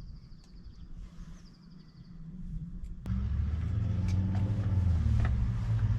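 A motor vehicle's engine running with a steady low hum, cutting in abruptly about halfway through. Before it, over a faint rumble, a bird gives two short high trills.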